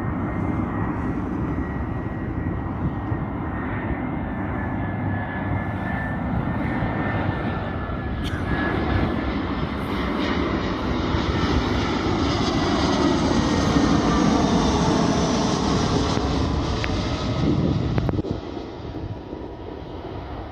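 An airliner's engines passing close by: a loud, steady rush that builds to a peak about two-thirds of the way through and then fades, with whining tones that slide down in pitch as it goes by.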